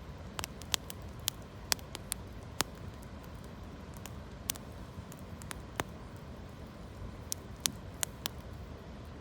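Wood campfire of branches and leaves crackling, with sharp pops at irregular intervals, about a dozen in all, over a steady background hiss.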